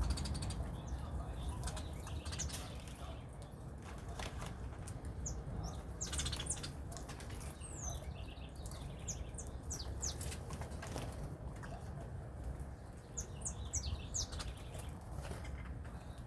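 Birds chirping in scattered clusters of short, high notes, with wings flapping now and then and a steady low rumble underneath.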